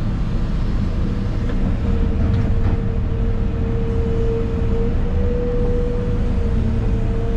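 Excavator's diesel engine running, heard from inside the cab, with a steady whine that comes in about two seconds in.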